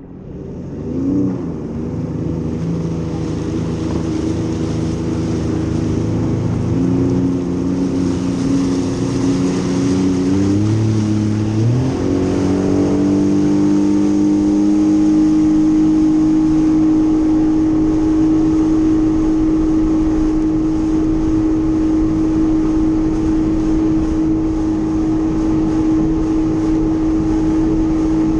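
Jet ski engine running, shifting speed through the first part, then rising in pitch about twelve seconds in and holding one steady pitch while cruising.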